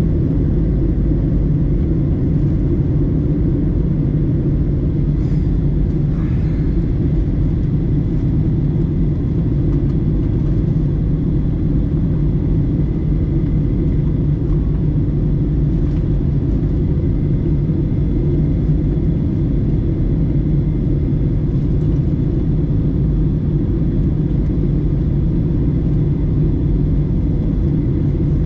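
Steady low rumble of engine and airflow noise inside the passenger cabin of a Boeing 737-900ER with its CFM56-7B engines running, unchanging throughout.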